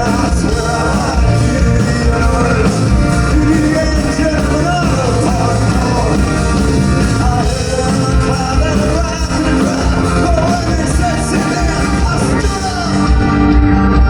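Live rock band playing an instrumental stretch of a song, with drums, bass and a wavering lead line over the top.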